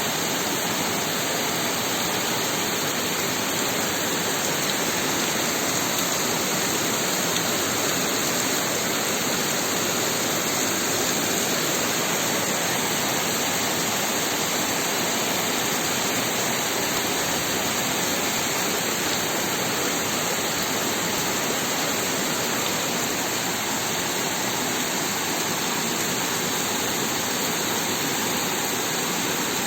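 Heavy rain pouring down in a downpour, a steady even hiss.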